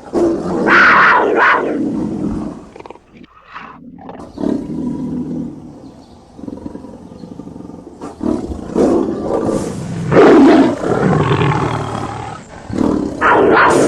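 Tiger roaring and growling in several loud bouts: one about a second in, a longer run from about eight to eleven seconds, and another near the end.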